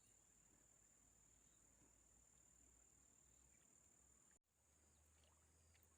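Very faint, steady high-pitched insect trill, typical of crickets, over near silence; it drops out for a moment about four and a half seconds in.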